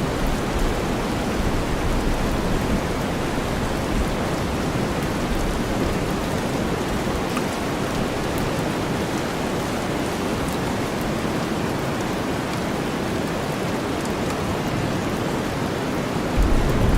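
Steady rainfall blended with deep white noise. A low rumble is strong at the start, fades away, and returns near the end.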